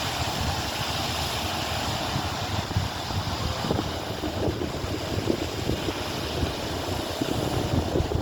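Wind buffeting the microphone: a steady low rumble with irregular gusts, getting gustier from about halfway through.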